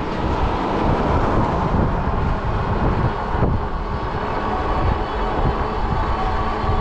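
Steady riding noise from an Ecotric 20-inch folding fat-tire e-bike rolling along, a continuous rumble with no clear breaks.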